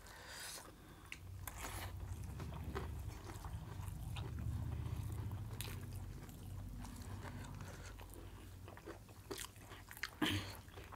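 Close-up chewing and biting of rice and mutton curry, with soft clicks and squelches of fingers mixing food on steel plates. A short louder knock comes near the end.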